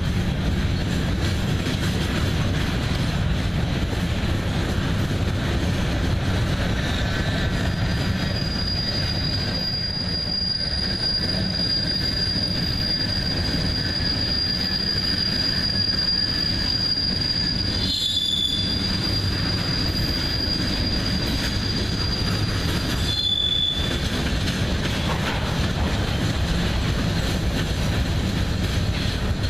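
Freight cars rolling past with a steady rumble of steel wheels on rail. A long, steady high-pitched wheel squeal starts about a quarter of the way in and stops after about fifteen seconds, with two brief shorter squeals near its end.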